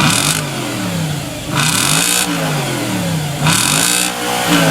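2005 Audi S4's 4.2-litre V8 on its stock exhaust, revved in about four quick throttle blips; each time the pitch rises sharply, then falls back toward idle.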